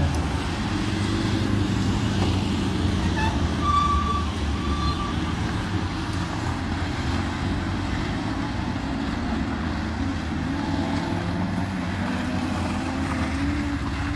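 Race car engine running hard, its pitch wavering up and down with the throttle. Two brief high tones come about four and five seconds in.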